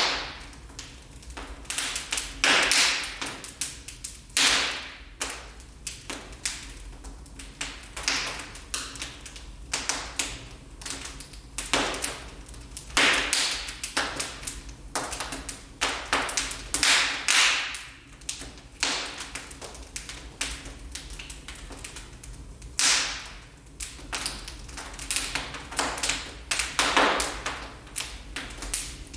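Wood fire burning in a fireplace, crackling with irregular sharp pops and snaps, some coming in quick clusters.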